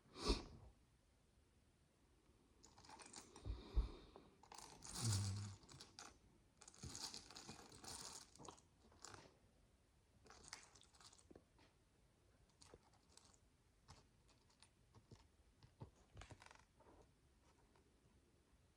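Small plastic micro building bricks being handled: rustling and sifting through loose pieces, busiest between about 3 and 8 seconds in, with scattered light clicks as bricks are picked up and pressed together, sparser later on.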